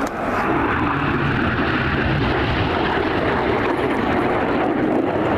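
BAE Hawk T1 jet aircraft flying past, with steady, loud jet engine noise.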